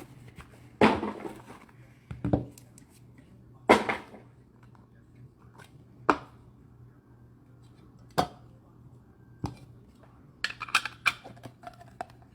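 Trading cards, plastic card holders and box packaging being handled on a tabletop: scattered sharp clicks, taps and short rustles, the loudest about a second in and near four seconds, with a quick run of taps near the end.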